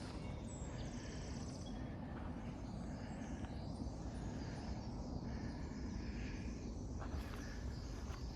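Outdoor coastal trail ambience: a steady low rumble of wind and distant ocean, with faint bird calls in the middle and a couple of footsteps near the end.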